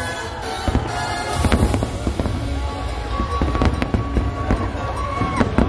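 Aerial fireworks bursting overhead in a rapid, irregular run of sharp bangs and crackles over a deep rumble, with music playing underneath.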